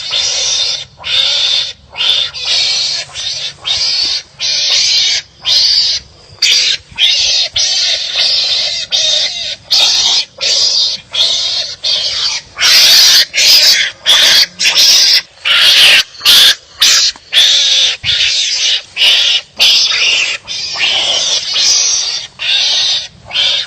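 Wild animals fighting and calling at each other: a fast, continuous series of harsh, raspy calls, roughly one or two a second with short gaps between, loudest about halfway through.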